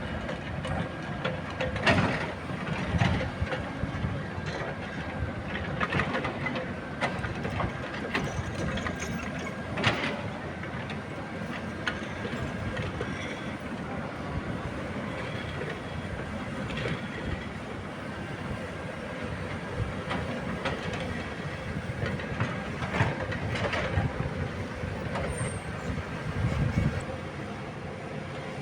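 Caterpillar 306E2 mini excavator at work: the engine running steadily, with sharp metallic clanks and knocks every few seconds.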